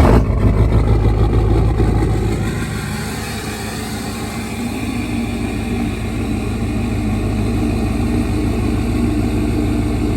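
Duramax LML 6.6-litre V8 turbo-diesel, deleted and tuned, just fired on a cold start. It runs loud for about two seconds, then settles into a steady, rapid-pulsed diesel idle.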